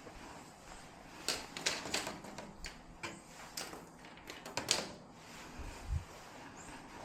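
Scattered sharp clicks and light knocks, bunched in two clusters, with a dull low thump near the end.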